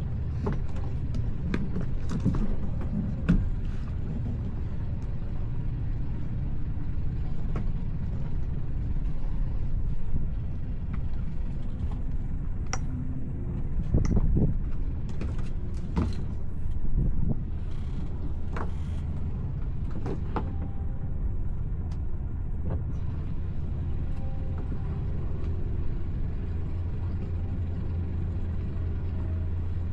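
Towboat engine running at low speed, a steady low hum, with scattered knocks and clunks throughout.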